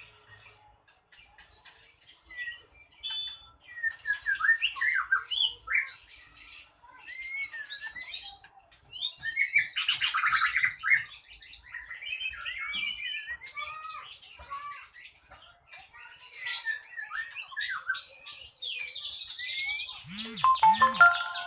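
A small songbird singing hard and without pause: a rapid jumble of sharp chirps, whistles and trills, with a few held whistle notes. This is the fast, aggressive full song bird-keepers call 'gacor', played to stir other birds into singing.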